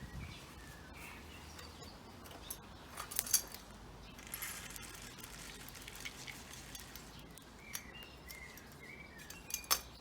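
Light clinks and knocks of a bird feeder being handled and filled with peanuts, sharpest about three seconds in and again near the end, with small garden birds chirping in the background.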